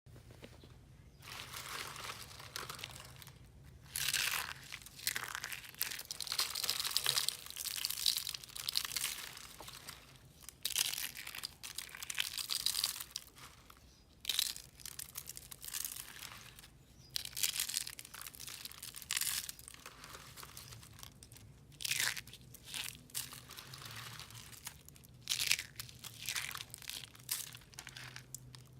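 Dry recycled soap crunching and crumbling in repeated crisp, crackly bursts, each lasting a second or so with short pauses between.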